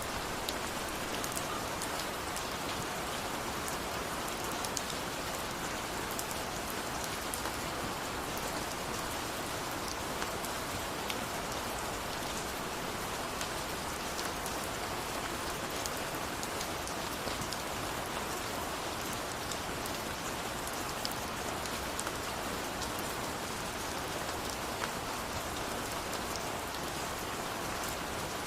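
Steady rain falling, with a dense hiss and many small drop ticks spread evenly throughout.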